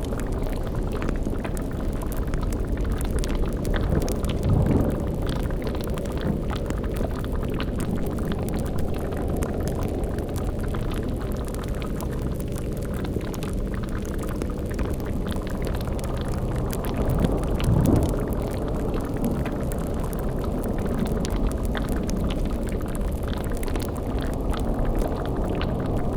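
Layered spooky ambience: a cauldron bubbling and a fire crackling over a steady low drone. A deep rumble swells up twice, about four seconds in and again near eighteen seconds.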